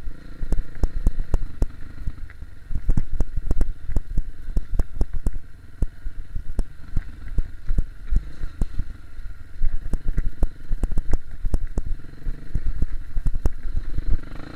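KTM 250 EXC-F single-cylinder four-stroke dirt bike engine running while ridden, with many sharp knocks and rattles throughout.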